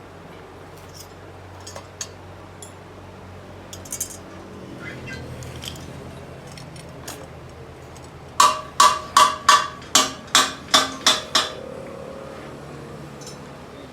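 Hammer blows on metal: nine quick, evenly spaced strikes, about three a second, each with a short ring, in the second half. Before them come scattered light metallic taps and clinks.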